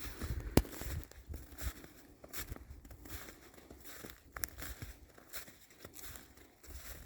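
Footsteps crunching through snow over fallen leaves, in an uneven walking rhythm, with one sharp click about half a second in.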